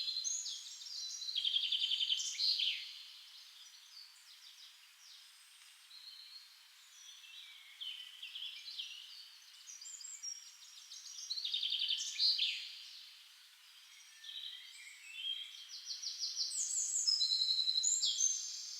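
Birdsong: several small songbirds chirping and singing rapid trills. The calls come in busier spells about a second in, near the middle and toward the end.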